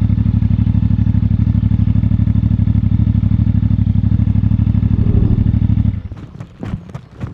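CFMoto 450MT's parallel-twin engine idling with an even pulse, then switched off about six seconds in, cutting out suddenly. A few sharp clicks and knocks follow.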